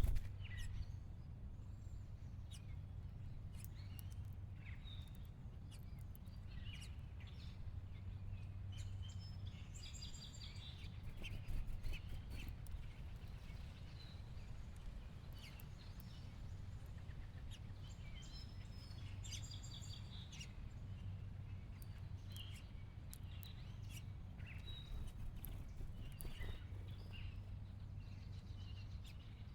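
House finches chirping in short, scattered notes over a steady low background hum.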